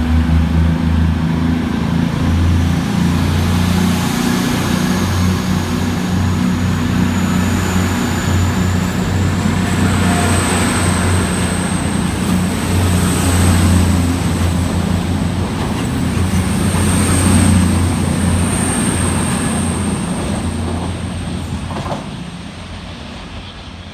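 Two coupled Class 220 Voyager diesel-electric trains pulling out, their underfloor Cummins diesel engines running under load with a steady deep drone and a faint high whine. The sound fades over the last few seconds as the train draws away.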